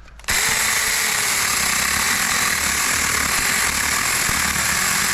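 Supstable 6-inch cordless mini chainsaw starting abruptly and running steadily as it cuts through a branch about 3 inches thick.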